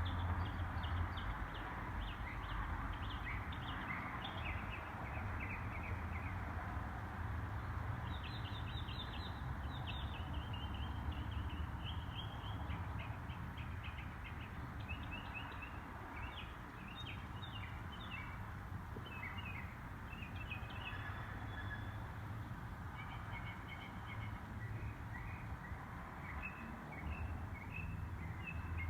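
Several songbirds chirping and trilling in quick repeated notes, over a steady low rumble.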